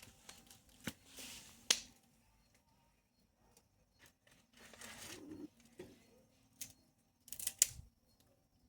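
Small bonfire of wood and brush being lit and tended: scattered sharp snaps and cracks with a few short rushes of rustling noise, the loudest snaps about 2 s and 7.5 s in.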